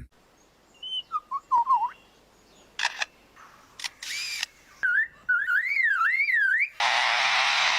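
Lyrebird mimicking man-made sounds. First a few short whistled notes, then sharp shutter-like clicks, then a warbling whistle that rises and falls like a car alarm, and near the end a steady harsh rasping noise.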